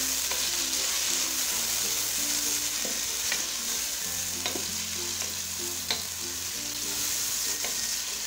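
Sliced onions, chopped tomatoes and green chillies sizzling in hot oil in a wok-shaped pan while a wooden spoon stirs them, with a few sharp knocks of the spoon against the pan, the loudest about six seconds in.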